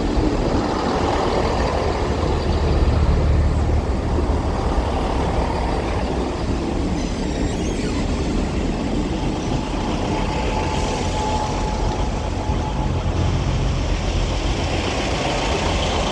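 East Midlands Railway Class 158 diesel multiple unit running slowly into the station, a steady low diesel rumble with wheel and track noise. A faint thin high tone sounds briefly a little past the middle.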